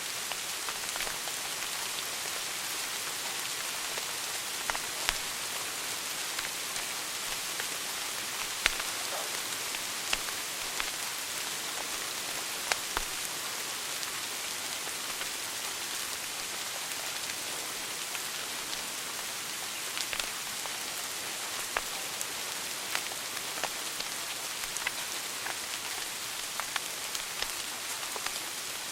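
Wood fire burning in a fireplace: a steady hiss with frequent sharp crackles and pops, a few louder snaps among them.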